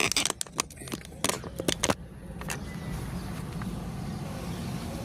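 Steady low rumble of road traffic, with a few sharp clicks and knocks in the first two seconds.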